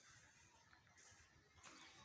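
Near silence: faint background hiss with a few soft, brief high-pitched rustles.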